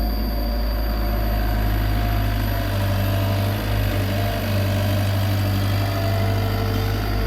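Komatsu PC75 excavator's diesel engine running steadily at a low, even speed with a deep hum.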